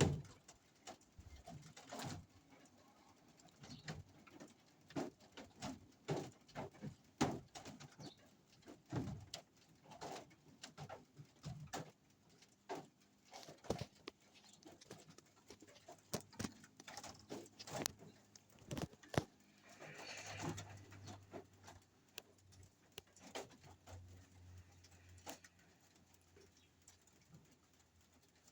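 Scattered, irregular taps and clicks, with a low humming sound from about twenty seconds in.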